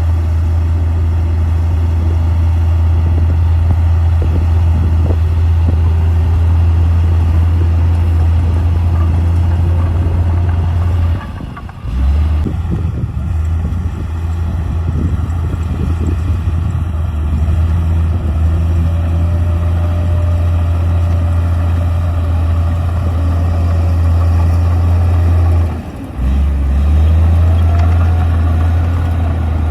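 Komatsu D58P bulldozer's diesel engine running with a steady low drone, dipping briefly twice, about 11 seconds in and again near 26 seconds, with a faint whine rising and falling above it in the second half.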